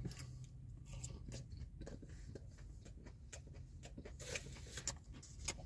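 Faint, irregular chewing: soft mouth clicks and smacks of someone eating chicken wings.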